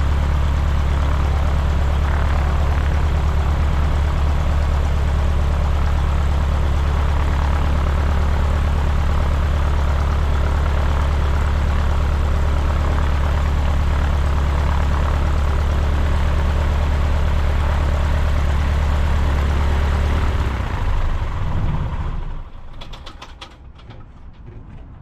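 Cessna 150's Continental O-200 four-cylinder engine idling steadily with a low drone, then shut down about 21 seconds in: it falters briefly and runs down to a stop.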